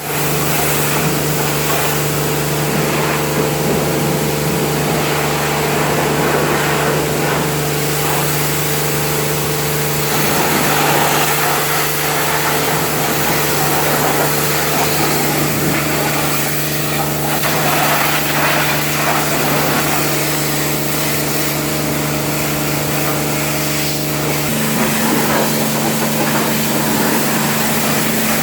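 Car wash equipment running steadily: a constant motor or pump hum under the hiss of water spray. A second, higher hum joins in the last few seconds.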